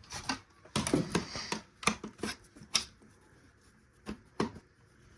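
Irregular sharp clicks and light knocks, about a dozen, from hands and tools working on the parts of a taken-apart radio, tape and CD player. Most fall in the first three seconds, with two more around four seconds in.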